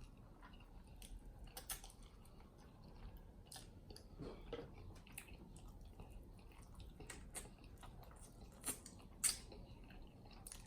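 Close-up chewing of saucy chicken wings: soft wet smacks and small clicks at irregular moments, a little louder about 8.7 and 9.3 seconds in.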